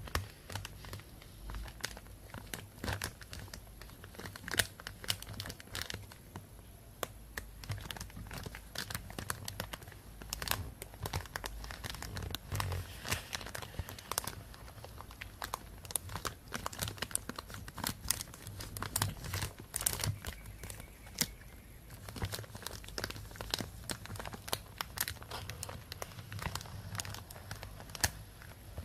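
Thin plastic bag crinkling and rustling in irregular, crackling handfuls, with no steady rhythm.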